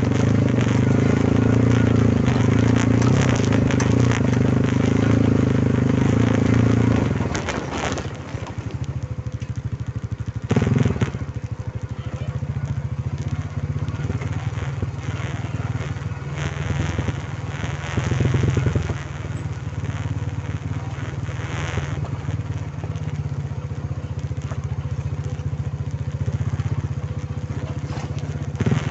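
Quad bike (ATV) engine running steadily at high revs, then dropping to a lower, quieter note about seven seconds in, where it runs on with a few brief surges.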